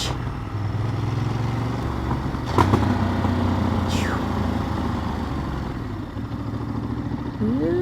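Motorcycle engine running at a steady low pace, its note shifting slightly about one and two and a half seconds in, with a sharp click about two and a half seconds in and a brief falling whistle about four seconds in.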